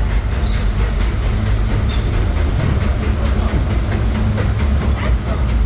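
Narrow-gauge steam train heard from aboard a passenger coach while under way: a steady low rumble of wheels on track, with light clicking throughout.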